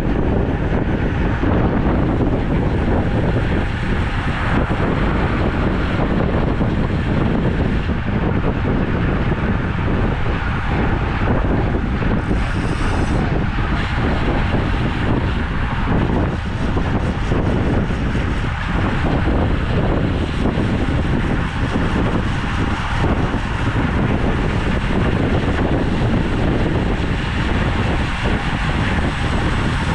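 Wind buffeting the microphone of a camera on a moving road bike: a loud, steady rumbling rush with no let-up.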